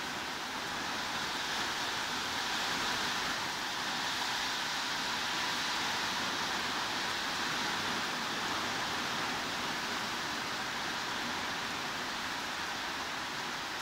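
Heavy rain falling steadily, an even hiss without breaks or distinct drops.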